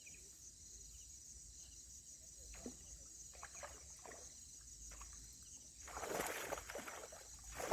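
Insects trilling steadily at a high pitch, with a few scattered knocks. About six seconds in comes a louder burst of water splashing and rustling.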